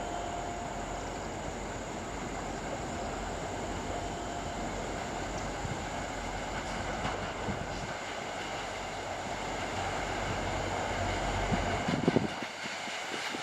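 Passenger train running along the track: a steady rumble and hiss that grows a little louder toward the end, with a few short knocks about twelve seconds in.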